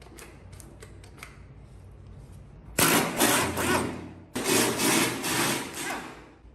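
A few faint clicks, then two bursts of a power tool with a harsh, fast rattle, each lasting about a second and a half.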